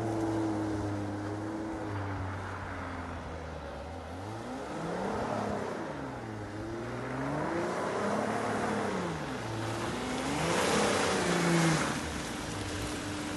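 Audi A6 3.0 quattro engine revving up and falling back about three times as the car slides round on a muddy field. It is loudest just before the end, where a rush of wheelspin joins the engine, and then it settles to a steady drone.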